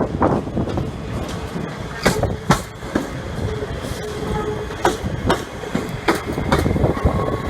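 Train moving slowly over the track: a low rumble broken by irregular sharp clanks from the wheels, with a faint brief wheel squeal in the middle.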